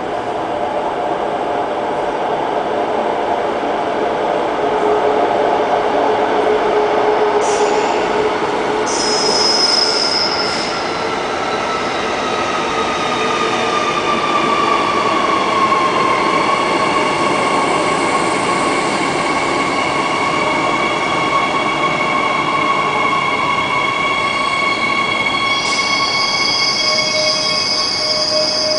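A Transperth B-series electric multiple unit pulling into the station. There is a steady rumble of running gear under a set of electric whining tones that slide down in pitch as the train slows, then hold. A brief high squeal comes about nine seconds in, and a longer one near the end as the train brakes to a stop.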